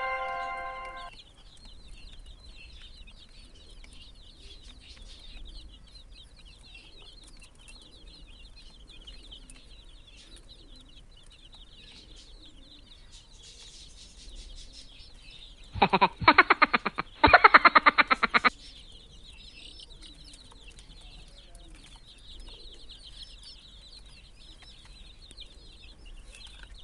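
Baby chicks peeping steadily, a high chirping chorus. A chime fades out at the very start, and about sixteen seconds in come two loud bursts of a rapid rattling call, each lasting about a second.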